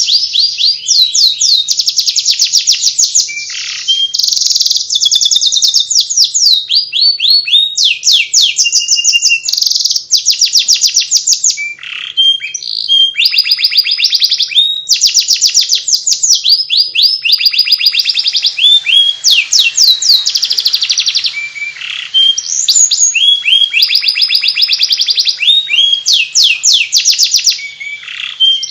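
Domestic canary singing a long, nearly continuous twittering song ('ngriwik'): fast trills and quickly repeated chirping phrases with only brief gaps.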